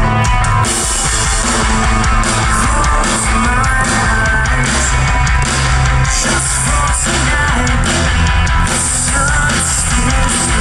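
Live metalcore band playing loud with distorted electric guitars and drums, recorded from the crowd.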